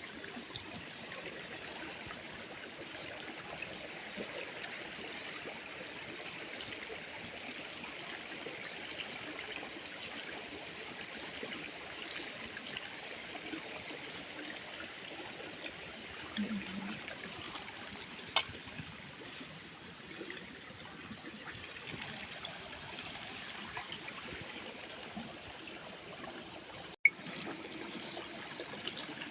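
Small stream of water running and trickling steadily, with one sharp click about eighteen seconds in and a brief pop near the end.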